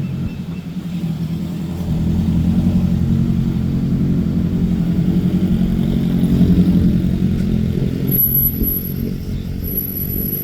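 A car engine running close by, louder from about two seconds in and easing off near the end.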